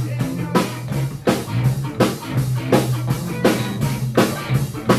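Live rock band playing an instrumental stretch with no singing. The drum kit keeps a steady beat of about one stroke every 0.7 seconds under bass guitar and guitar.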